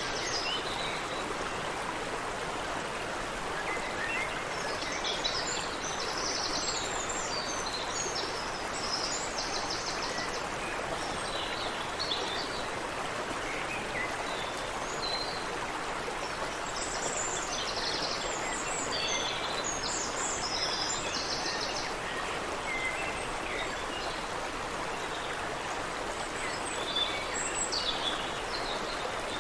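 Creek water running over rocks in a steady rush, with several small birds singing and calling above it, their trills coming in bunches.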